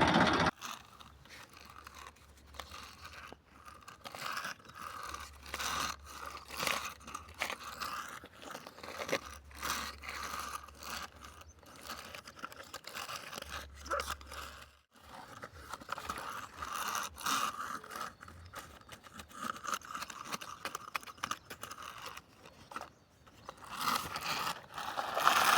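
Toy tractor and toy backhoe loader working loose soil: irregular crunching and scraping with many small clicks.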